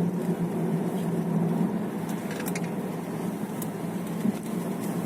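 Steady road and engine noise of a moving car, heard from inside the cabin, with a couple of faint clicks about two and a half and three and a half seconds in.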